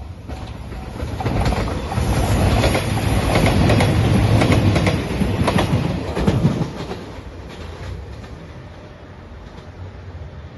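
JR Shikoku 2700 series diesel express train passing close by. Its rumble builds, peaks with a quick run of wheel clicks over the rail joints about five to six seconds in, then fades as it moves away.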